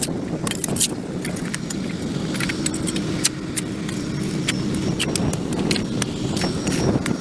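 Hand tools scraping and knocking on a concrete sidewalk as dirt and grass are cleared, in quick irregular strokes. A steady low rumble runs underneath.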